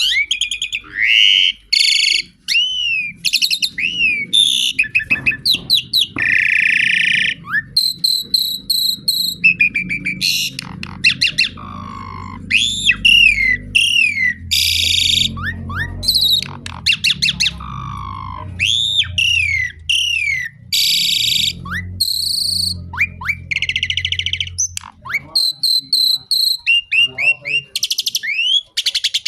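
Pied starling (jalak suren) singing a long, loud, varied song: whistled notes that rise and fall, buzzy harsh phrases and fast runs of clicks, one after another with hardly a pause.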